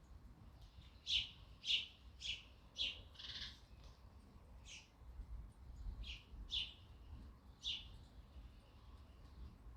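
Sparrows chirping: a run of five short chirps about half a second apart, then four more scattered ones, over a faint low rumble.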